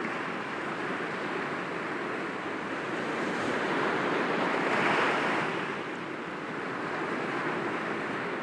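Sea waves breaking gently against rocks. A steady wash of surf swells to a peak about five seconds in, then draws back.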